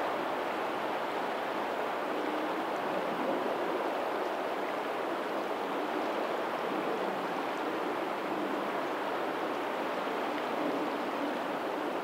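Steady rush of a lagoon's tidal outflow running to the sea, with faint ocean waves behind it.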